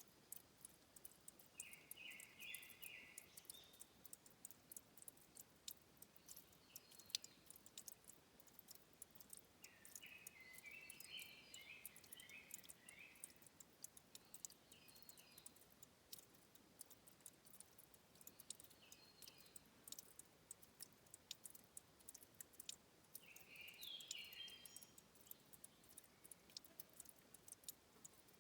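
Faint, irregular drips and ticks of water at a spring source, with short chirping calls coming in several times, in clusters of quick notes.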